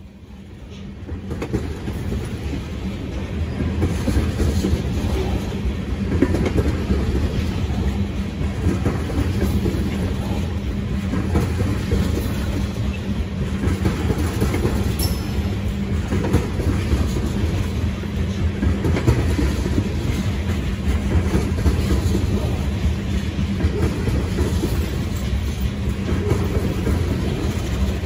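Freight train of loaded tank cars rolling past, a steady rumble with wheels clacking over the rail joints, fading in over the first few seconds.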